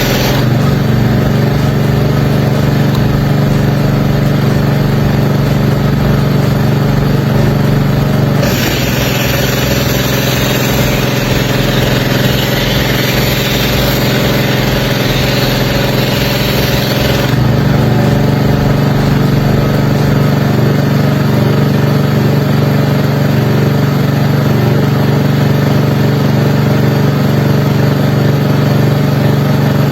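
An engine running steadily at idle. A spray hisses over it for about nine seconds, starting about eight seconds in.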